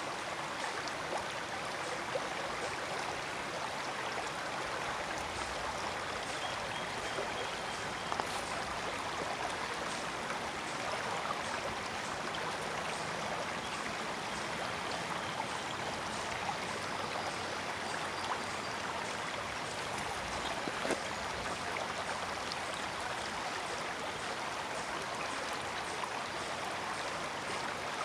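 Forest brook running steadily, with a continuous rush of water and faint small splashes and drips throughout.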